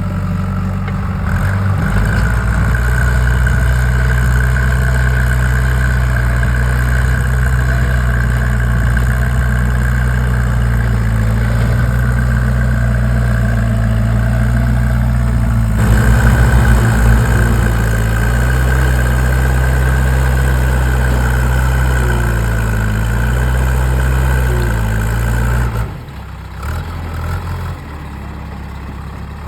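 Diesel engine of a JCB 3DX backhoe loader running steadily at a low, even speed. The engine note shifts abruptly about halfway through and turns quieter near the end.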